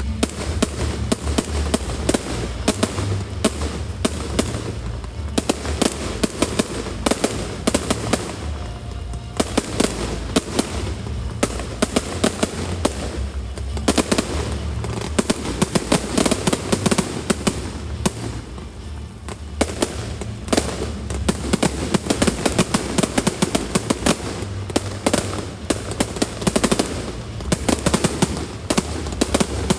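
Fireworks display: rapid volleys of bangs and crackling, nearly continuous, with short lulls about nine and nineteen seconds in.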